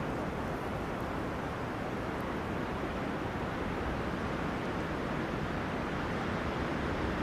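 Wind blowing through forest trees, a steady rushing with no single gust standing out.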